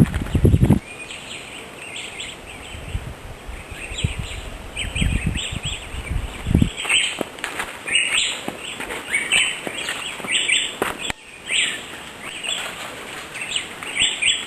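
Wild birds chirping, many short calls repeating throughout. A low rumble sits under them in the first second and again from about four to seven seconds in.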